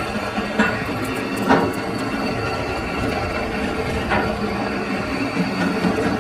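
Metalworking lathe running with a steady mechanical hum, with three short sharper noises over it.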